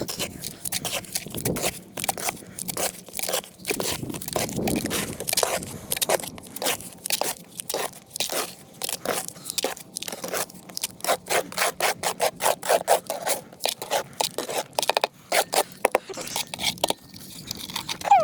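Hand tool scraping and crunching through wet concrete mix in quick repeated strokes, about two to three a second.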